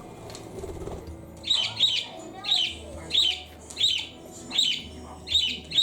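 A pet parakeet giving a run of sharp, evenly repeated calls, about one every 0.7 seconds, starting about a second and a half in.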